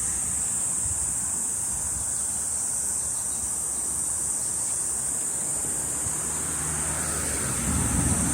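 Steady high-pitched chorus of cicadas with no let-up, over a low wind rumble on the microphone that swells briefly near the end.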